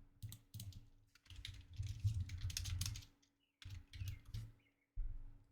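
Faint, irregular clicking and tapping of a computer keyboard and mouse, with soft low knocks among the clicks.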